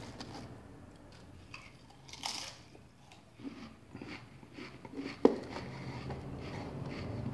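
Pringles potato crisps being crunched and chewed, with small rustling clicks from a hand in the cardboard can and a crackly crunch about two seconds in. A single sharp knock about five seconds in is the loudest sound.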